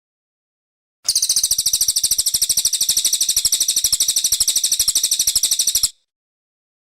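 Cililin coklat singing one rapid, even trill of high notes, about fourteen a second, for about five seconds before stopping abruptly.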